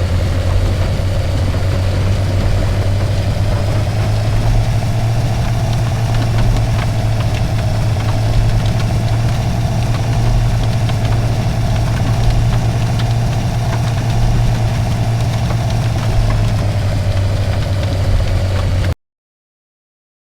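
Car engine running steadily with a strong low hum, cutting off suddenly near the end.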